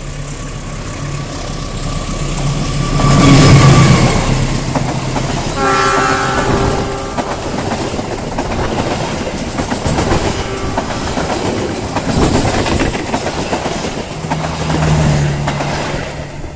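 A CC206 diesel-electric locomotive hauling a passenger train passes close by at speed. Its engine rumble is loudest about three to four seconds in, a train horn sounds around six seconds in, and the coaches then run past with rapid wheel-on-rail clatter.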